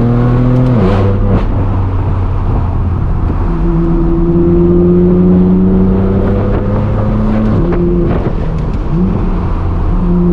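BMW M4 F82's twin-turbo inline-six running through a straight-piped, non-resonated AWE track exhaust, a loud, steady exhaust note while driving. The pitch dips about a second in, climbs slowly for several seconds, drops again near eight seconds and rises once more near the end.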